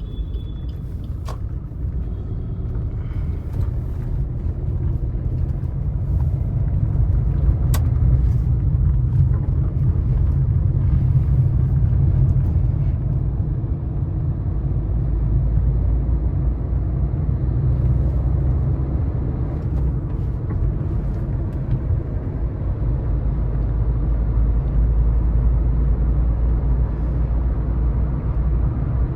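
Suzuki S-Cross 1.3 DDiS diesel car on the move: a steady low rumble of engine and road noise, with a few sharp clicks, the clearest about eight seconds in.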